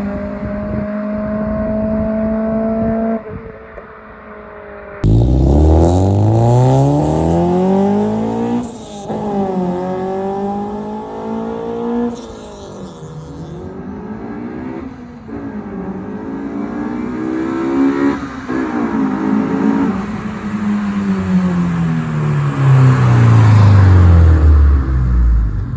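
Car engine running steadily at first, then revved hard several times from about five seconds in, its pitch climbing and dropping with each rev. Near the end the pitch falls away slowly.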